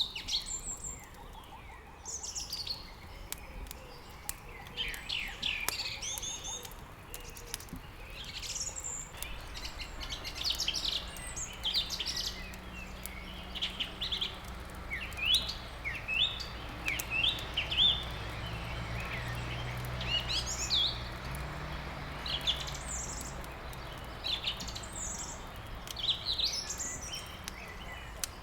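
Many small songbirds chirping and twittering in quick, varied phrases, over faint sharp crackles of burning wood in a fireplace. A low steady hum comes in about ten seconds in.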